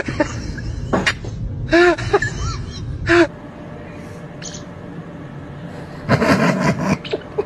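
Parrot giving short, arching calls, three brief ones a second or so apart, then a rough noisy burst about six seconds in.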